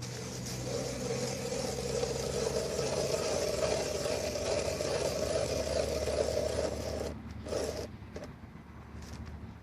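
Steady mechanical grinding over a low engine-like hum, cutting off suddenly about seven seconds in, followed by a few faint clicks.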